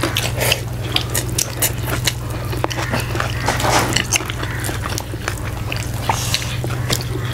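Close-miked chewing and mouth sounds of people eating pork and rice by hand, with many short, sharp, wet smacks and clicks. A steady low hum runs underneath.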